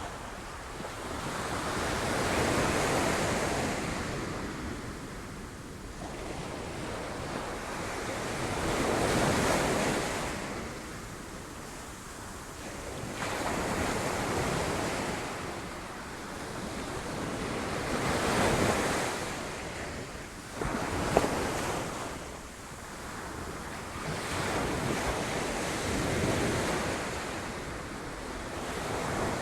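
Sea waves crashing on rocks: surges of surf that swell and die away every five or six seconds. One short, sharp sound comes about two-thirds of the way through.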